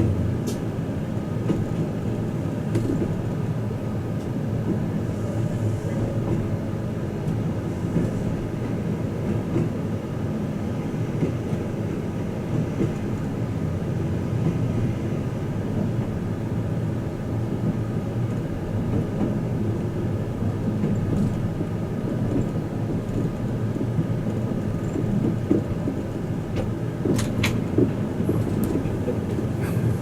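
Twilight Express Mizukaze train running at speed, heard inside a passenger car: a steady rumble of wheels on rail, with a few sharp clicks near the end.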